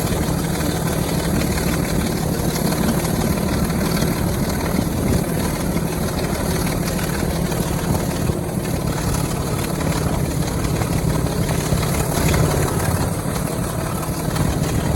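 Heritage diesel locomotive's engine running steadily with a deep, even drone.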